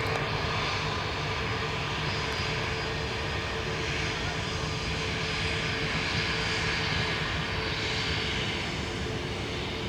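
Jet airliner's engines running steadily at high thrust for takeoff: an even rush with a faint steady whine underneath.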